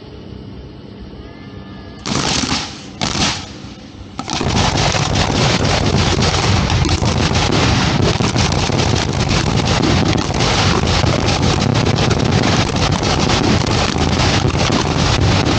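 Fireworks show opening at close range: two short loud bursts, then from about four seconds in a continuous, dense barrage of shells firing in rapid succession.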